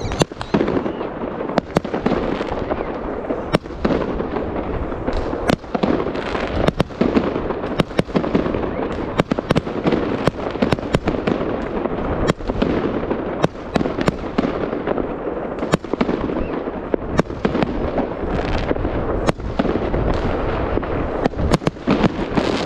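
Fireworks going off: dozens of sharp bangs at irregular intervals over a continuous crackling din of bursting shells.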